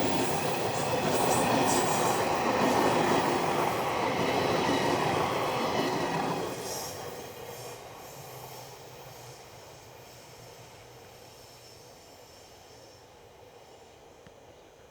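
Freight train rolling past on the line, wheels rumbling and clattering over the rails with some wheel squeal. About six or seven seconds in, the sound starts to fade steadily as the train moves away.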